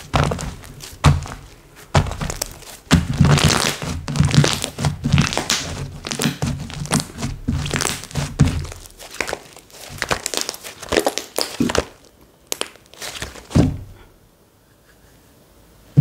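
Slime being squeezed, stretched and poked by hand, giving a dense run of sticky clicks and crackles that thins out to a few soft clicks near the end.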